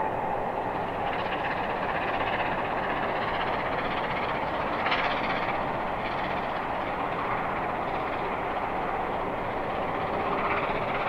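A steam-hauled passenger train led by A1 Pacific locomotive 60163 Tornado, heard from a distance as a steady rumble while it runs along the line.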